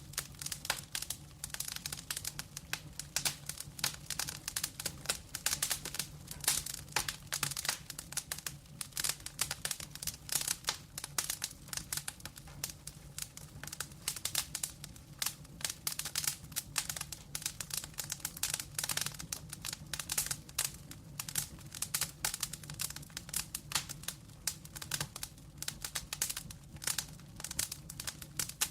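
Wood fire crackling with many irregular sharp pops and snaps over a low steady hum.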